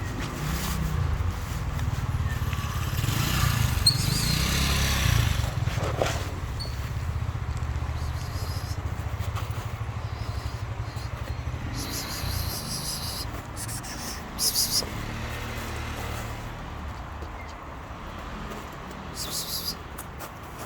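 A motor vehicle engine running close by with a low, steady rumble. It grows loudest a few seconds in and fades near the end. Short rustling noises come a few times in the second half.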